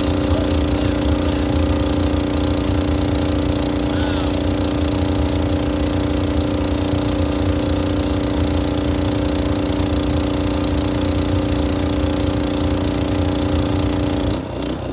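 Engine-driven hot water pressure washer running steadily, a constant engine drone over a low rumble, with the water heater still warming up. The steady drone drops away suddenly near the end.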